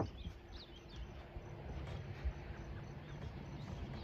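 A wooden panel is handled and pushed into place against a boat's side: low rubbing and scraping with a couple of knocks, one at the start and one a little past halfway. Birds chirp faintly in the background.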